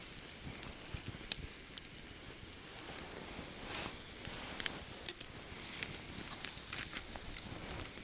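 Wood fire burning down to coals, crackling, with a soft steady hiss and scattered sharp pops.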